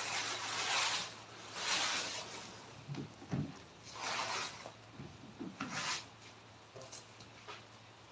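Hand abrading of a wooden carving, rubbing it down by hand: four or five irregular rubbing strokes over the first six seconds, then it goes quieter.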